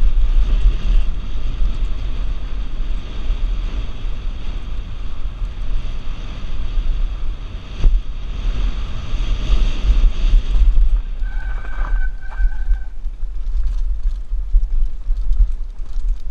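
Wind buffeting a helmet-mounted action camera during a fast mountain bike descent, with the tyres and bike rattling over the rough trail. A sharp knock about eight seconds in, and a brief high squeal a few seconds later.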